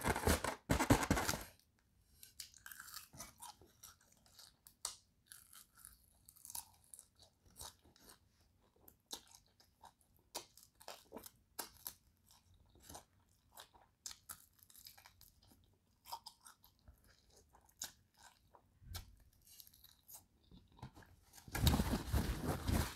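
Close-up chewing and crunching of crispy fried chicken wings, bites coming in scattered short crunches. A louder burst comes in the first second or so, and near the end a loud rustle of a paper napkin.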